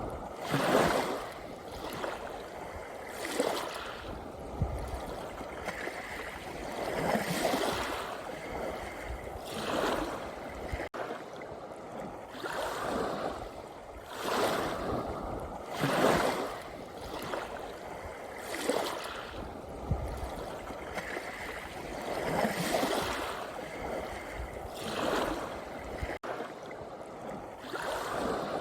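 Sea waves washing onto the shore, each swell of surf rising and falling away every two to three seconds. Twice the sound cuts out for an instant.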